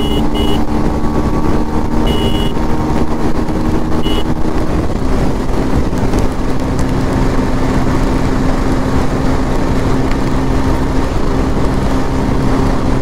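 Bajaj Pulsar 125's single-cylinder engine running hard in top gear on a top-speed run, with wind rushing over the microphone; its note shifts slightly about five seconds in. A few short high beeps sound in the first four seconds.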